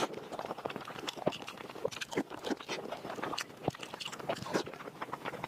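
A person chewing and biting food, with dense, irregular clicks and crunches.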